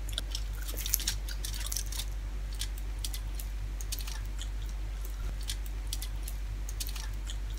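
Close-up chewing with the hands-on eating of fried dried milkfish and rice: scattered soft wet clicks and crackles at an irregular pace, over a steady low hum.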